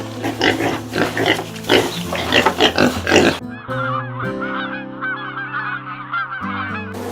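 A large bird, such as a goose, giving loud honking calls in quick succession for about the first half, over background music; after that only the music continues.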